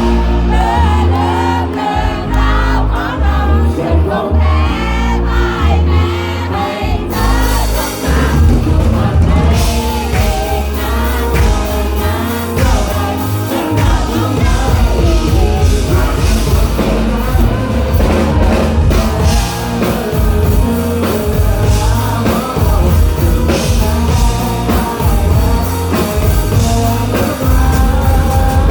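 Live rock band playing a song with sung vocals over bass. About seven seconds in, the full drum kit with cymbals comes in.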